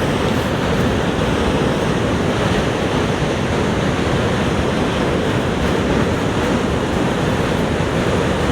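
Niagara Falls, falling water rushing with a steady, deep, unbroken noise.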